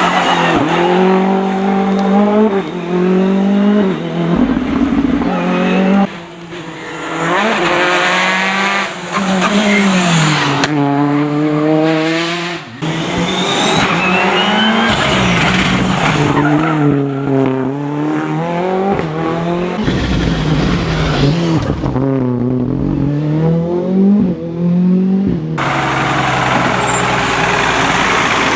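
Rally cars passing one after another on a stage, in a string of short takes with abrupt cuts. Each engine revs up through the gears and drops back on the lifts and shifts.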